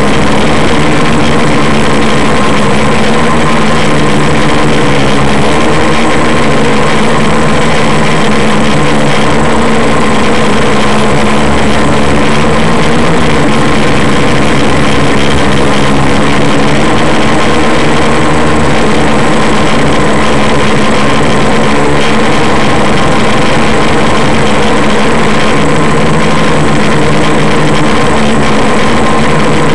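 Quadcopter's electric motors and propellers running steadily in flight, a loud whir of several tones that drift up and down a little as the throttle changes, over hiss.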